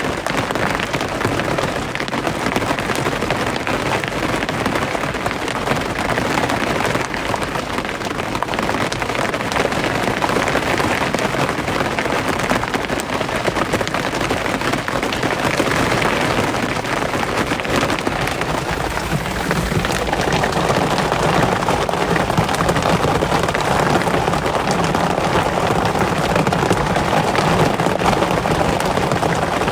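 Steady rain falling; about two-thirds of the way through it grows a little louder and fuller.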